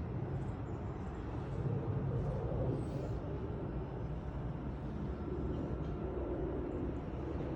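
2015 Scion tC's 2.5-litre four-cylinder engine idling steadily, a low even rumble heard with the hood open.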